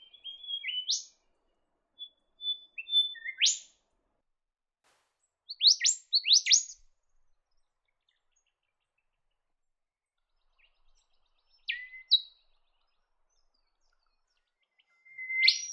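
Golden whistler singing: five separate phrases of clear whistled notes, each ending in a sharp rising upsweep, with pauses of a few seconds between phrases.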